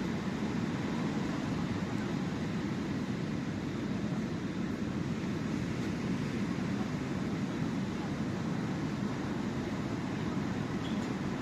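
Sea surf on the shore: a steady low rushing of waves with no distinct breaks or pauses.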